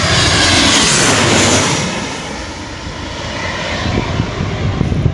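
Jet airliner on final approach passing low overhead: a loud engine roar with a high whine that falls in pitch, loudest in the first two seconds and then dropping away as the aircraft moves off toward the runway.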